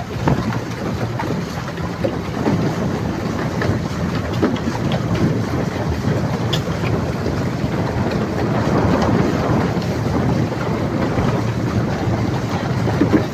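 Wind buffeting the microphone in a steady, uneven rumble.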